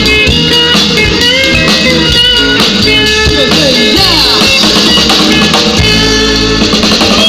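Band music with electric guitar and drum kit playing, with sliding guitar notes; the instrumental close of the song.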